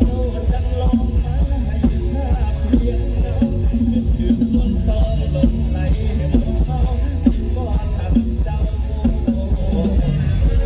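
Mor lam band music without singing: a drum kit and heavy bass keep a steady beat under a running melody line.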